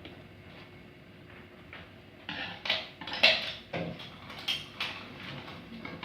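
A run of sharp, irregular clattering knocks of hard objects, starting about two seconds in.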